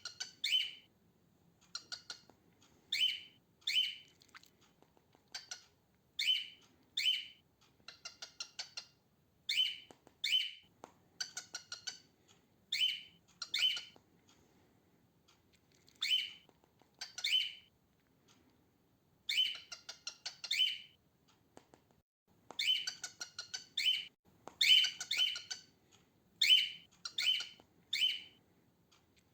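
Female cockatiel calling: short, harsh chirps, mostly in pairs, repeated every few seconds, with quicker runs of softer chirps between and a busier burst of calls near the end.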